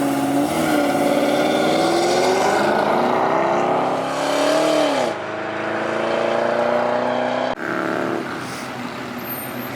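Car engine accelerating hard, its pitch climbing for about five seconds. The pitch then drops sharply and the engine holds a steady note as the car pulls away.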